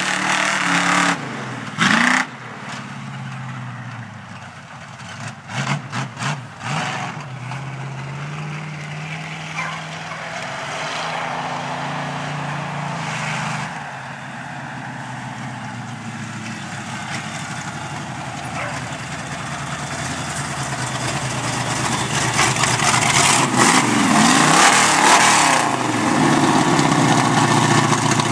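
Off-road 4x4 truck engine revving, its pitch rising and falling, getting louder over the last several seconds with hard revs.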